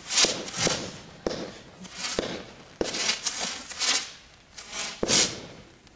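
Consumer fireworks going off: a string of about a dozen sharp pops at uneven intervals, each trailing a crackling hiss, loudest just after the start and again about five seconds in.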